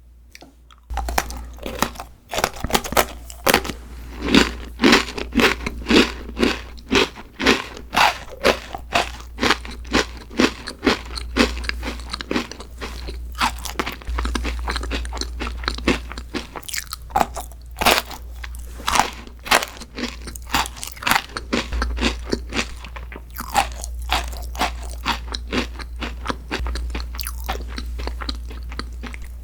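Close-miked chewing of a crunchy dessert: sharp, crisp crunches about twice a second, starting about a second in.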